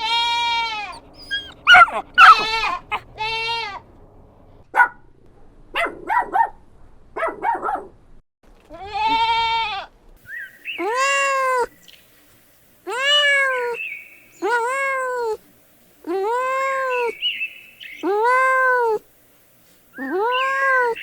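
A young animal giving repeated high-pitched crying calls, each rising and falling in pitch. At first they come short and irregular, then settle into longer, evenly spaced cries about every second and a half.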